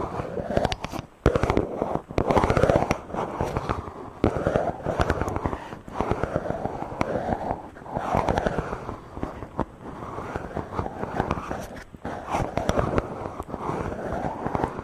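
Something rubbing directly over a microphone, giving a close, dense scratchy crackle that swells and fades in repeated sweeping strokes, about one every one and a half to two seconds.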